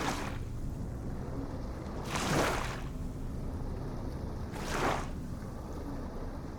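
Small ocean waves breaking and washing in, a swelling hiss about every two and a half seconds, over a steady low rumble of surf.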